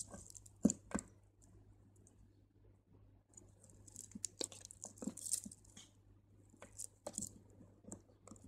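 Crystal beads and beading line being handled: scattered small sharp clicks as beads knock together, with light rustling and scratching between them.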